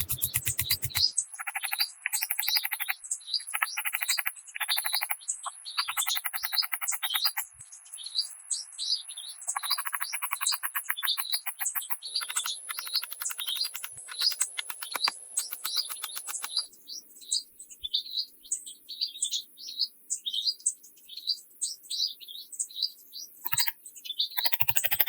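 Birds chirping in short, high notes repeated several times a second. A rapid pulsing trill starts and stops in blocks a few seconds long, and a faint steady high whine runs throughout.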